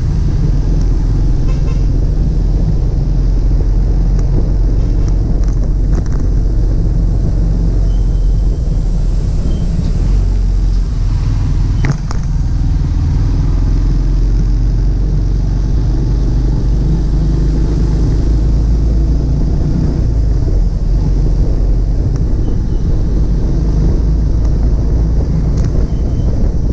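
Steady low rumble of a moving car on the road: engine, tyre and wind noise, with one short knock about halfway through.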